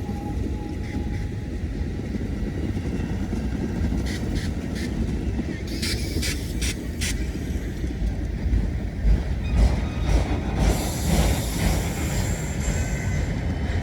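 Train rolling slowly past with a steady low rumble of wheels and cars. A run of sharp metallic clanks comes about halfway through, and thin high squeals from the wheels follow in the later part.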